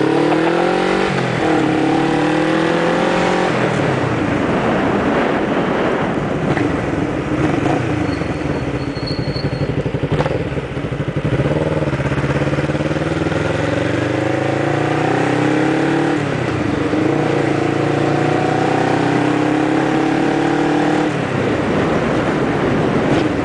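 Motorcycle engine accelerating through the gears. The revs climb and drop back at each upshift, twice in the first few seconds and twice more in the second half, with a brief easing off the throttle in the middle.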